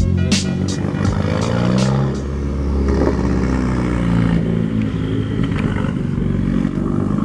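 Car engine running with a deep exhaust note, its pitch rising and falling a little as it is blipped. A few sharp clicks in the first half-second.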